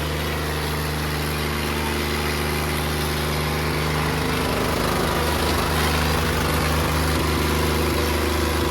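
Diesel tractor engine running steadily; from about halfway through, its note turns rougher and pulsing.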